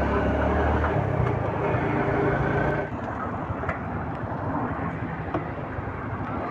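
Motorcycle engine running while riding, with wind and road noise. About three seconds in, the engine note falls away and the level drops, leaving mostly the wind and road noise.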